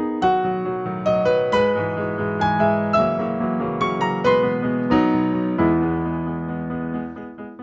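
Piano playing a slow, gentle melody over chords, each note struck and left to ring, with a held chord about two thirds of the way through that fades toward the end.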